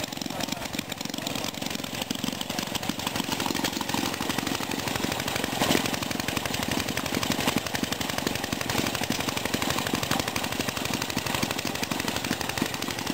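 Several vintage stationary gas engines running together, a dense stream of rapid exhaust pops and bangs.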